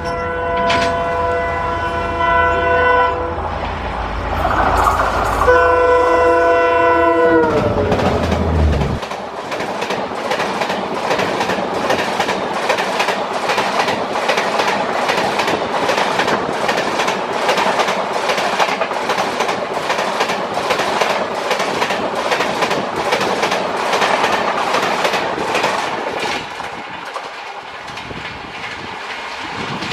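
WDP4D diesel locomotive (EMD two-stroke engine) passing at speed and sounding its horn twice over the deep rumble of its engine. The second blast falls in pitch as the locomotive goes by. Then the express coaches rush past with a fast, even clickety-clack of wheels over the rail joints, which eases slightly near the end as the last coach clears.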